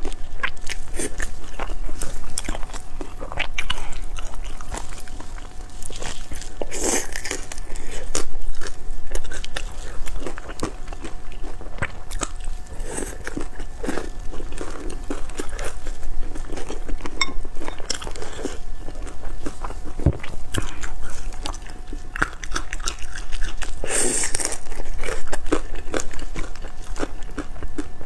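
Close-miked biting and chewing of pan-fried dumplings: soft crunches and wet mouth clicks, with two louder rushes of sound, about seven seconds in and near the end.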